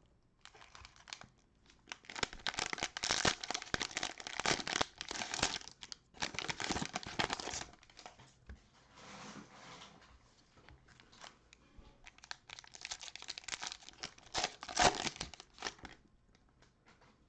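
Crinkling and tearing of plastic cello-pack wrappers on basketball trading-card packs being ripped open, in two long bouts of dense crackling with a softer rustle between them.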